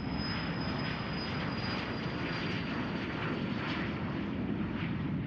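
Cessna Citation business jet's turbofan engines during its takeoff: a steady rush of engine noise with a thin high whine that slowly drops in pitch.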